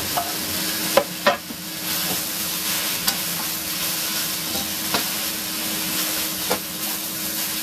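Food sizzling and frying in a hot pan with a steady hiss, being stirred. A handful of sharp clicks sound about a second in and a few times after.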